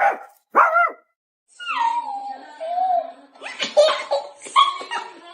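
Two short dog barks at the start, a drawn-out cry falling in pitch, then a person laughing in choppy bursts.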